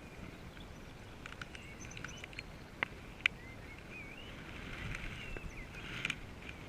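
Small birds singing a warbling, wavering song over a low background rumble, with two sharp clicks about three seconds in.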